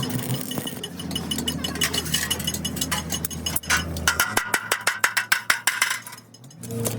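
Metal workshop work: rapid metallic clicks and knocks over a steady low machine hum, coming thickest in the later seconds and breaking off briefly near the end.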